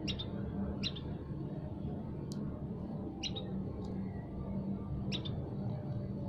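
A songbird giving short, sharp, high chirps, about four spaced irregularly, over a steady low hum.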